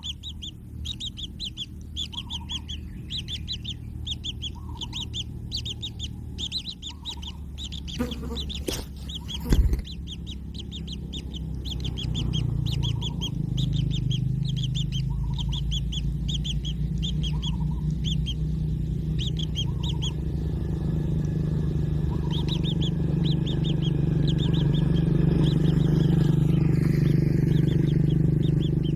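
Kingfisher chicks calling in rapid series of short high chirps, several a second. About eight to ten seconds in there are a few sharp knocks, and from about twelve seconds in a steady low hum grows and becomes the loudest sound.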